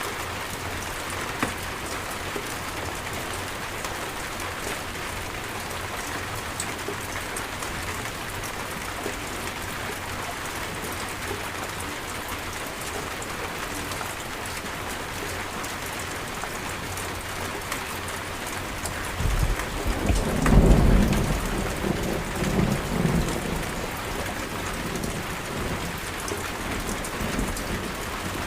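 Steady rain falling, with a rumble of thunder about two-thirds of the way through that swells, peaks and rolls on for a few seconds before fading back under the rain.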